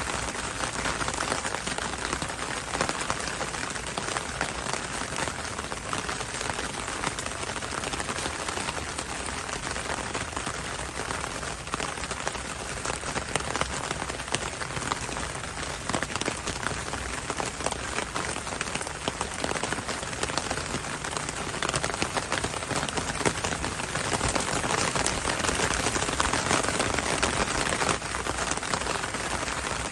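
Heavy rain falling steadily, a dense hiss of rainfall with many fine drop patters, swelling slightly near the end.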